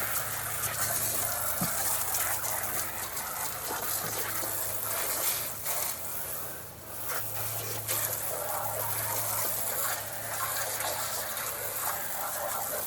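Water spraying hard onto steps as they are rinsed off, a steady hiss. Under it a low hum runs for the first few seconds, drops out midway and comes back for a few seconds.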